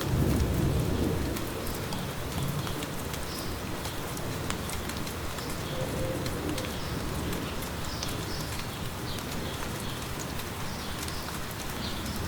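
Steady light rain, with many small drops pattering, and small birds chirping now and then. A low rumble stands out in the first second or so.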